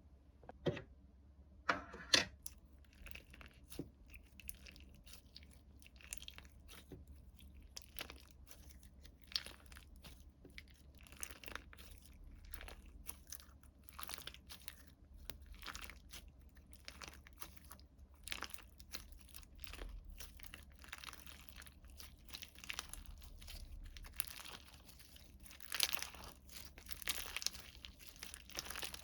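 Close-up crinkling and crunching from hands handling slime-box contents, a continual string of small crackles and taps, louder about two seconds in and again near the end.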